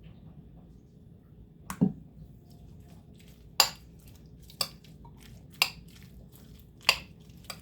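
A kitchen utensil clinking against a bowl of salad mixture: about six sharp, separate clinks, irregularly spaced about a second apart.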